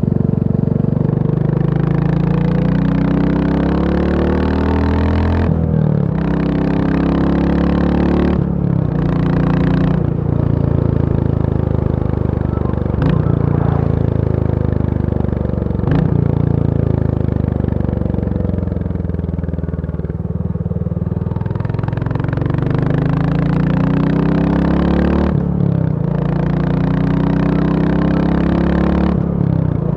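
Royal Enfield Bullet 350's single-cylinder four-stroke engine running hard, its pitch climbing over several seconds, breaking off briefly and climbing again, then falling away in the middle before picking up once more. Two sharp clicks stand out near the middle.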